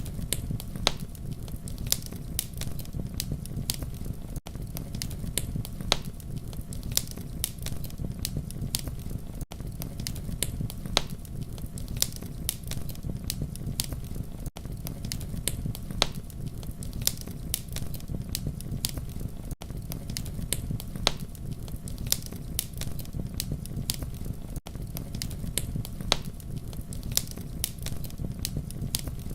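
Campfire burning with a steady low rumble and frequent sharp, irregular crackles and pops. A brief dropout recurs about every five seconds, as in a looped recording.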